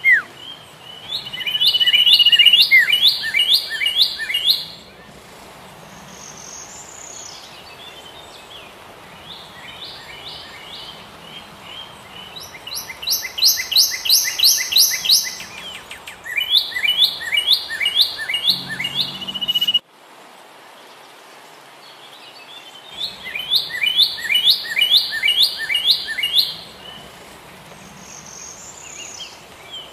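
A songbird singing repeated phrases of rapid chirping notes, each phrase two to four seconds long, with short pauses between them over a faint steady hiss. The sound cuts out abruptly about two-thirds of the way through, then the song resumes.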